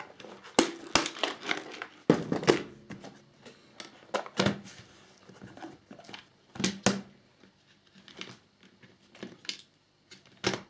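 Rustling and crinkling of a small plastic parts bag, with scattered light clicks and taps as tiny screws and plastic model parts are picked out and handled.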